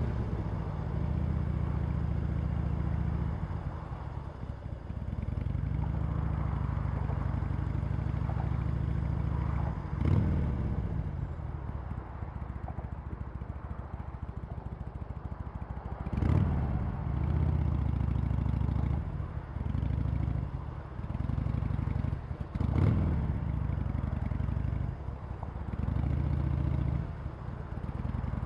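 Harley-Davidson Sportster Iron 883's air-cooled 883 cc V-twin running through its stock exhaust, engine speed rising and falling repeatedly, with three sharp revs along the way.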